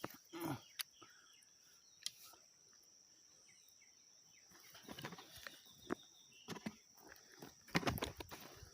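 Digging in soil by hand: scattered scrapes and knocks, with a busier cluster near the end. A steady high insect trill runs behind them.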